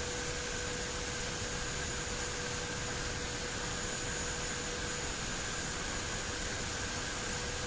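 Cockpit noise of a twin turboprop airliner at takeoff power during the takeoff roll: a steady rushing hiss with faint steady whining tones running through it.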